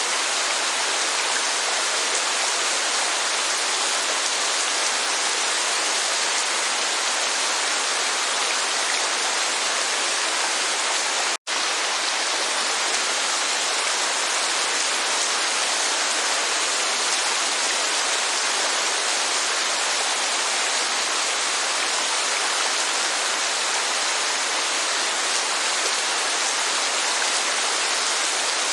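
Steady rush of heavy rainfall and falling water, an even hiss with no rhythm or pitch. It cuts out for an instant about eleven seconds in.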